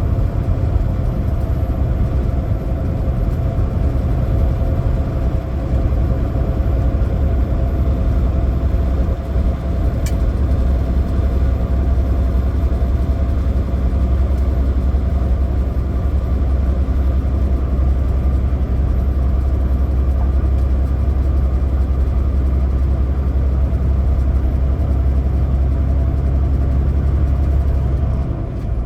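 A semi truck's diesel engine running with road noise, heard from the cab as a steady low drone.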